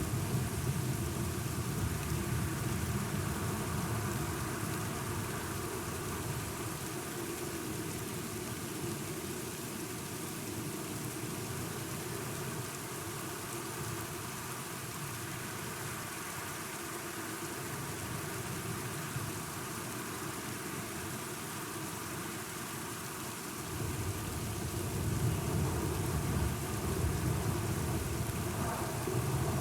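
Steady rain falling, with a low rumble of thunder that dies away over the first several seconds and swells again near the end.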